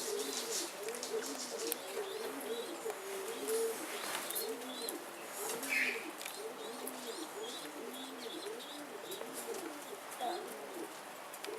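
Domestic pigeons cooing: low coos, each rising and falling, repeat and overlap without a break. A short higher call comes through about six seconds in.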